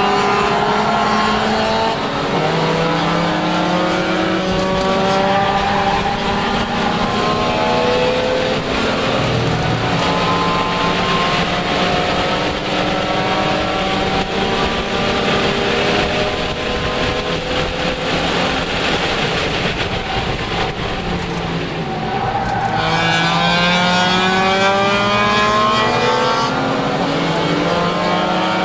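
Lexus IS300 race car's inline-six engine heard from inside the cabin under hard acceleration. Its pitch climbs through each gear and drops back at each shift. About three-quarters of the way through the engine note falls away, then climbs hard again, over steady road and wind noise.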